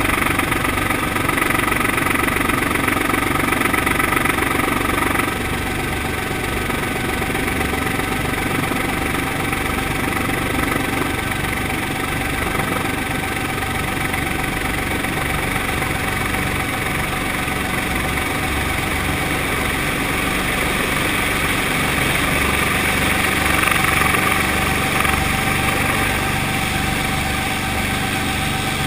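Brantly B2B helicopter's four-cylinder Lycoming piston engine and rotor running steadily, with a fast low pulsing from the blades. The level drops slightly about five seconds in and swells briefly near the end.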